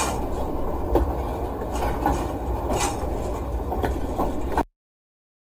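Rumble of a train running on the rails, heard as from inside a freight car, steady with a few sharp knocks. It cuts off abruptly to silence a little over four and a half seconds in.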